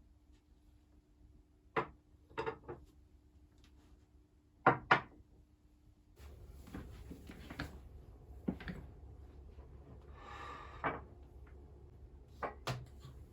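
A series of sharp knocks and clicks from household objects being handled and set down, the loudest a double knock about five seconds in. From about six seconds a low steady hum runs underneath.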